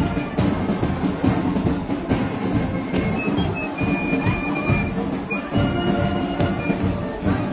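Marching band playing, with brass and drums keeping a steady beat.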